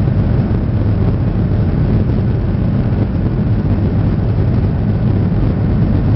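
Boeing 737-800's CFM56 jet engines during takeoff, a loud, steady, deep rumble that holds an even level throughout.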